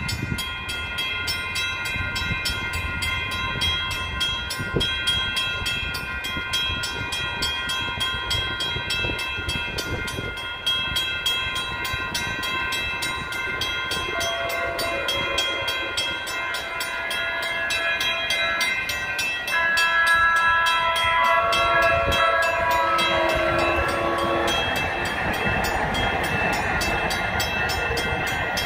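Bilevel passenger train approaching on the rails, with several steady high-pitched tones throughout and shifting tones joining partway through, growing louder from about twenty seconds in.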